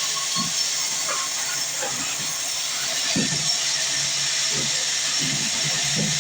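Sawmill band saw cutting through a log: a steady hiss, with faint irregular low knocks underneath.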